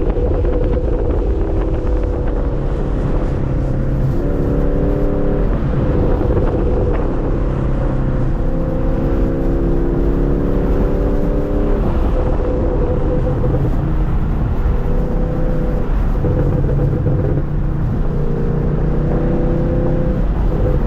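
2023 Camaro SS's 6.2-litre V8, run with the muffler and secondary catalytic converter deleted, pulling under way; its exhaust note holds loud and steady while its pitch steps up and down every second or two.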